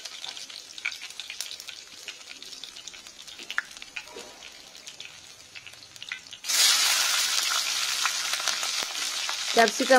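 Chopped garlic and ginger sizzling gently in hot mustard oil in a kadai, with small crackles. About six and a half seconds in, large chunks of capsicum go into the oil and it breaks into a much louder, steady sizzle.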